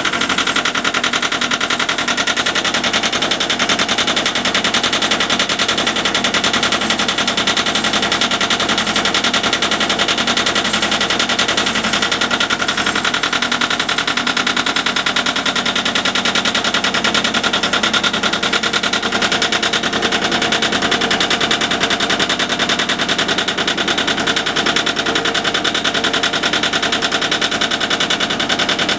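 Yanmar tractor's diesel engine running steadily with a fast, even clatter.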